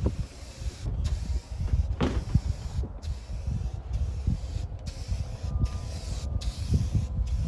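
Rust-Oleum Turbo Can aerosol spray paint hissing in a string of spray passes, cutting out briefly between them. A steady low rumble lies underneath and is the loudest thing.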